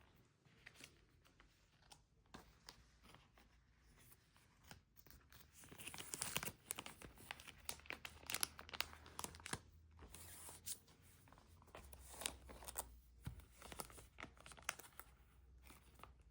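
Album packaging being handled, torn open and crinkled: quiet rustling at first, then from about six seconds in a run of louder, quick tearing and crinkling strokes.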